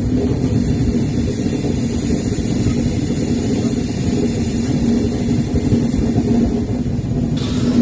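Garib Rath Express train running on the track: a loud, steady rumble with a constant low hum, and a short burst of hissing noise near the end.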